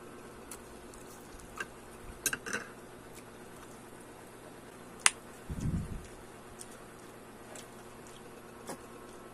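Eating sounds of a person chewing a fried root-crop patty: scattered small clicks and crunches, one sharp click about five seconds in followed by a dull low thump, over a steady low hum.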